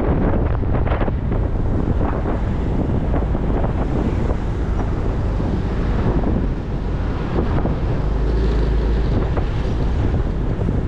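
Wind rushing and buffeting over the microphone of a motorcycle under way, with the bike's engine and road noise underneath. A heavier low buffet comes about eight seconds in.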